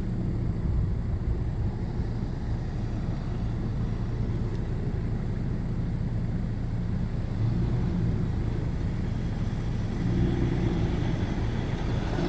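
Steady low hum of an idling motor vehicle engine, swelling slightly about two-thirds of the way through.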